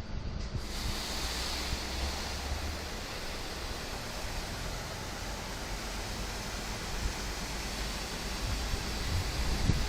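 Automatic car wash spraying water, a steady rushing hiss that comes on about half a second in over the low rumble of the machine.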